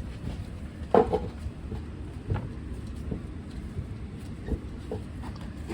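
A few separate knocks and clunks while a sand-casting mold is being packed, the loudest about a second in, over a steady low hum.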